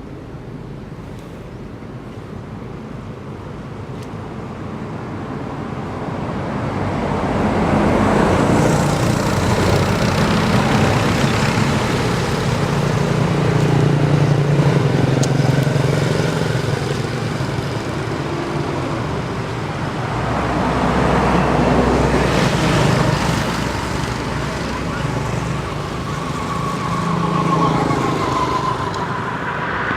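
Road traffic passing: engine and tyre noise that swells and fades several times as vehicles go by, loudest about a third of the way in.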